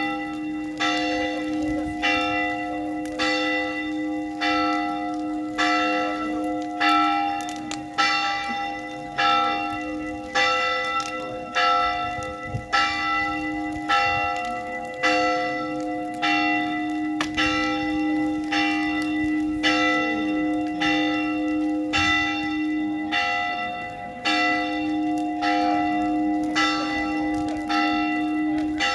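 Church bell ringing, struck about once a second, each strike ringing on into the next.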